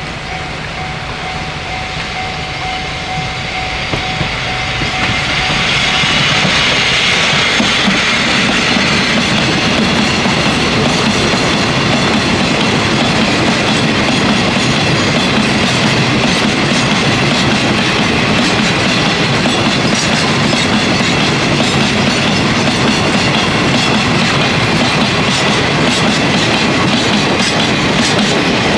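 Diesel-hauled freight train passing close by: the locomotive draws near, getting louder over the first six seconds or so, then a long string of loaded hopper wagons rolls steadily past, wheels clicking over the rail joints.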